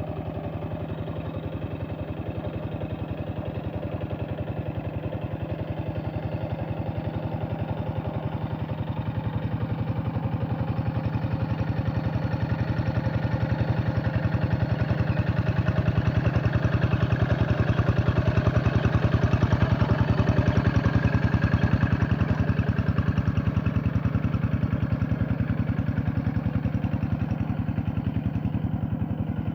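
Paddy tractor's diesel engine running steadily while it works a flooded rice field, its fast even firing beat growing gradually louder for about two-thirds of the time and then easing off a little.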